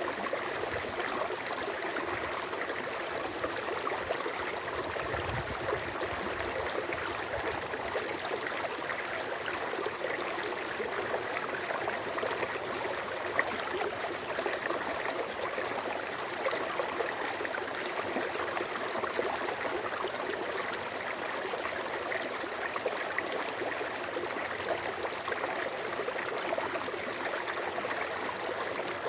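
Running water flowing steadily, with a continuous babbling splash and small irregular gurgles.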